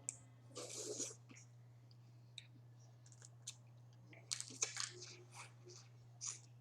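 Close-up eating of boiled crawfish: scattered small clicks and crunches of shells being cracked and peeled, with chewing, thickest about four to five seconds in. A steady low hum runs underneath.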